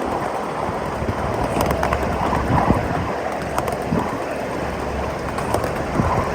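A 7.5-inch gauge miniature freight train rolling along, heard from aboard: a steady rumble of wheels on track with irregular clicks as the wheels cross rail joints.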